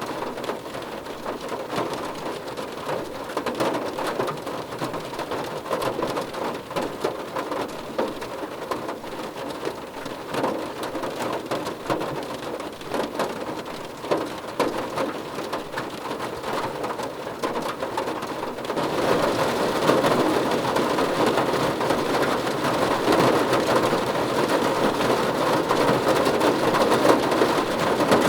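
Rain falling on a car roof: a steady hiss made up of many separate drop taps. About two thirds of the way through it gets louder and brighter, as the rain comes down harder.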